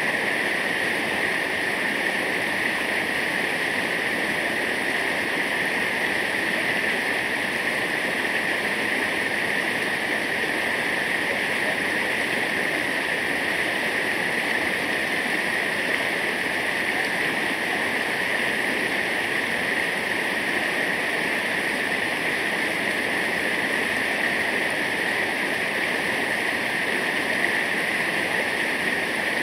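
Waterfall: water rushing steadily, with no let-up or change.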